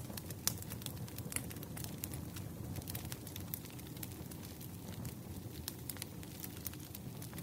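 Wood bonfire crackling: frequent irregular sharp pops and snaps, a few louder than the rest, over a steady low rumble of burning.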